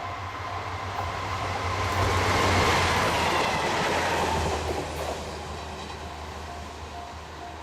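Freight train hauled by an EH500 electric locomotive passing on the line, growing louder to a peak about two and a half seconds in and then fading as it goes by.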